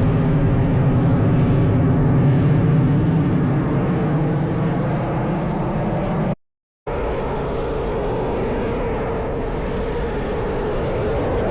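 Piston engines of a propeller aircraft droning steadily as it flies by. The sound cuts out completely for about half a second around the middle, then carries on.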